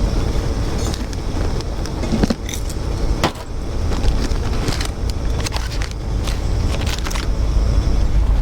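Rain falling, with scattered drops tapping sharply over a steady low rumble.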